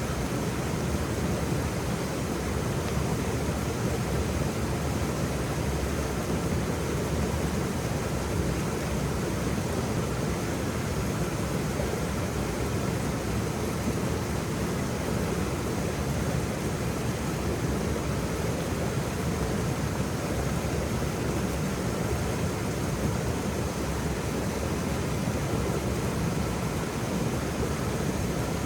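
Waterfall: a steady, unbroken rush of falling water, deep and full, with no splashes or other events standing out.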